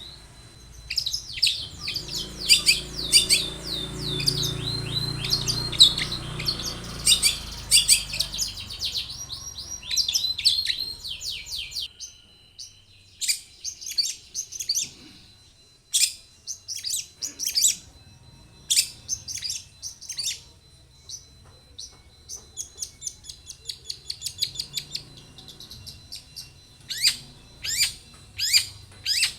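Long-tailed shrike (cendet) singing in full voice: bouts of rapid, scratchy notes that each sweep quickly downward, delivered in fast strings, with short pauses between bouts.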